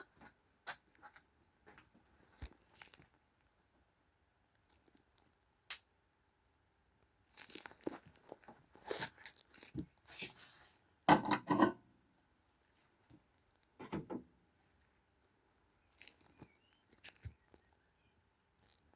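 Handling noises: scattered clicks and a few short rustling, crunching scrapes, the loudest about eleven seconds in, with no engine running.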